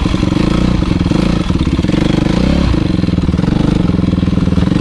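Motocross bike engine running with a fast, pulsing exhaust beat, its note shifting slightly a couple of times.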